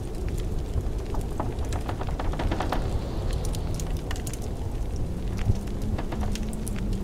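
Wood fire crackling in a fireplace, with many small irregular pops and snaps, over the steady low rumble of blizzard wind with a faint howl.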